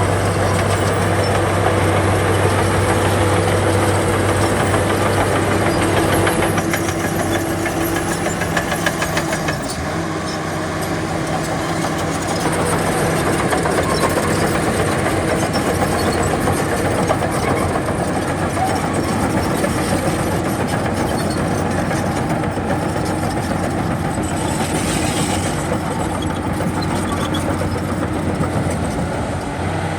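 Heavy diesel engine of earthmoving machinery running steadily, its low hum easing about ten seconds in and picking up again near the end.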